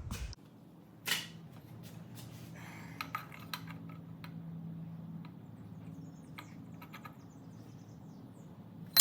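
Steel exhaust pipe parts being test-fitted by hand: a few light metal clicks and clinks, then a sharp knock near the end, over a low steady hum.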